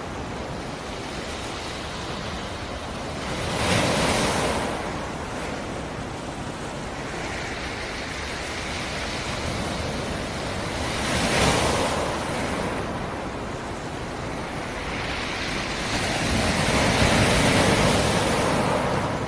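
Sea surf breaking on a rocky shore: a steady wash of water with three waves swelling and crashing, about 4 seconds in, about 11 seconds in, and a longer one near the end.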